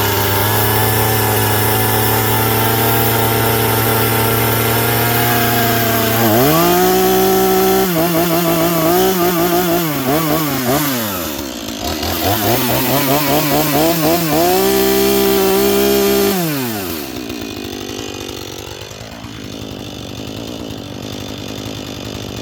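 Husqvarna 440e 40cc two-stroke chainsaw idling steadily. About six seconds in it is revved up to high speed and held there, with a run of quick throttle blips, then revved high again. Near the end it falls back to a quieter idle.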